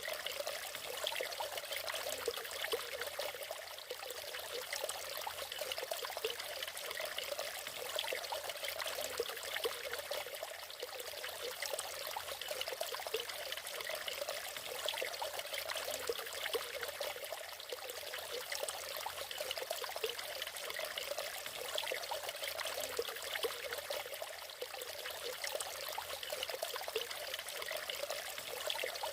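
Natural waterfall: water splashing and trickling steadily, a busy bright patter with little deep rumble.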